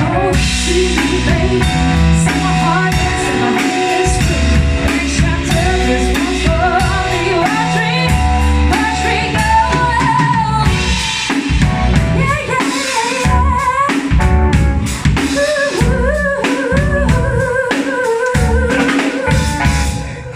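Live band playing a rock song with a full drum kit and a woman singing over it.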